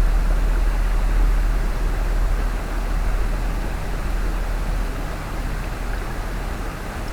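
Mountain stream rushing over rocks, a steady wash of water noise, with a low rumble that slowly eases off.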